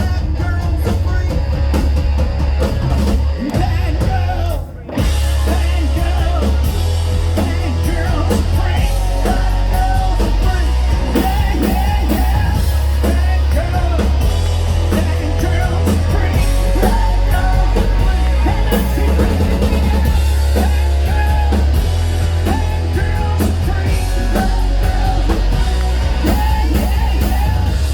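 Rock band playing live: drum kit, heavy bass and electric guitar, with a brief stop in the music just under five seconds in before the band comes back in.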